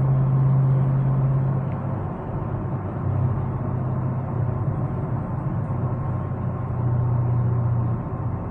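Chevrolet Camaro ZL1's supercharged 6.2-litre V8 driving at a steady pace, a low engine drone over road rumble that eases off about two seconds in and comes back on near three and seven seconds.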